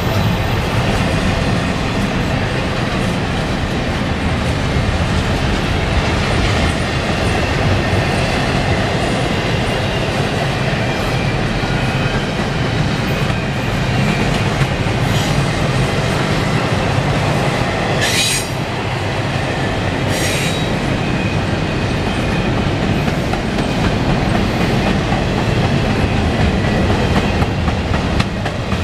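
Double-stack intermodal freight train rolling past: a steady loud rumble of steel wheels on rail with clickety-clack over the joints and some wheel squeal. Twice, about two-thirds of the way in, there is a brief sharp high-pitched screech.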